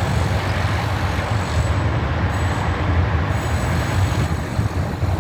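Wind buffeting the microphone: a steady, loud rush with a fluttering low rumble.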